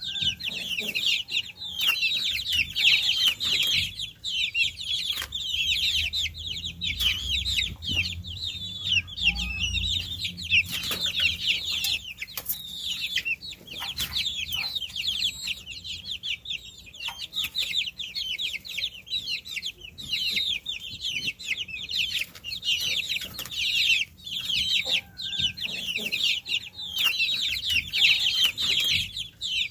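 A group of baby chicks peeping continuously: many short, high, downward-sliding chirps overlapping, with no pauses. A low rumble sits underneath for a few seconds about a third of the way in.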